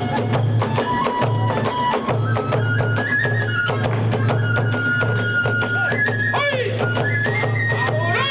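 Hiroshima kagura festival music: a bamboo flute plays long held notes that step up and down in pitch over fast, continuous drum and hand-cymbal beats.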